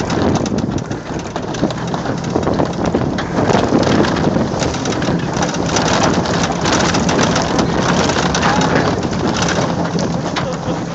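Loud rushing noise of a john boat being towed at speed as a sled, with a dense patter of many small hits throughout.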